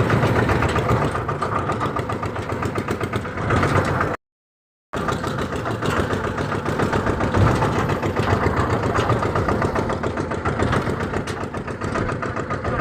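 Massey Ferguson tractor's diesel engine running steadily. The sound drops out completely for under a second about four seconds in, then resumes unchanged.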